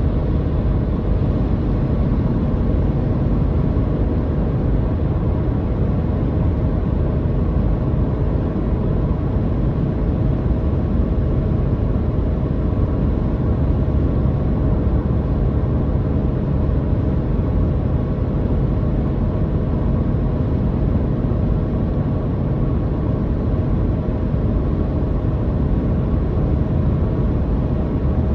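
Car motor droning steadily under road noise while driving, an even low rumble that does not change.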